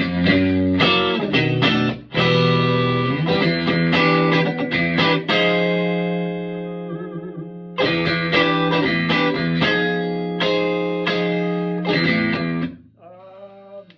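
Electric guitar played through a Vintage Sound Amp with its volume at about 2.5, pretty clean with only a hint of breakup. Chords are picked and left to ring out, with a short pause in the middle, and the playing stops shortly before the end.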